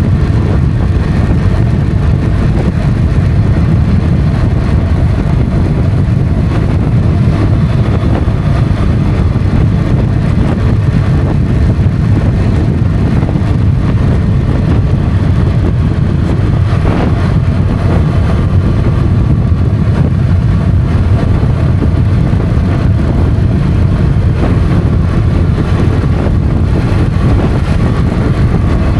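Motorcycle on the move: the engine runs steadily under dense, low wind and road noise, with a brief change in engine pitch about halfway through.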